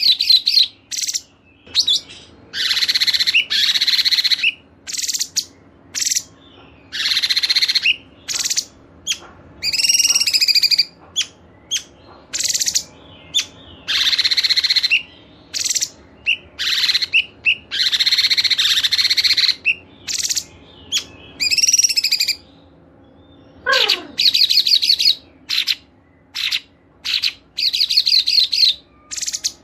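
Mixed songbirds, from a set of cungkok, cikris, canary, katem and lovebird, singing clear high chirps and trills in short phrases of about a second with brief pauses between them. About three-quarters of the way through, one call slides sharply downward in pitch.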